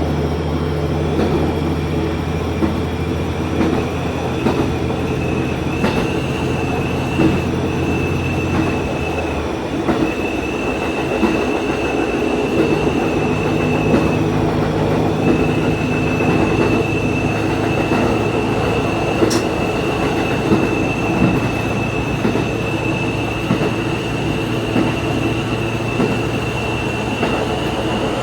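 Diesel railcar running along the track, its engine drone with a low hum that drops away about nine and a half seconds in, over frequent clicks from the wheels on the rail joints and a steady high whine.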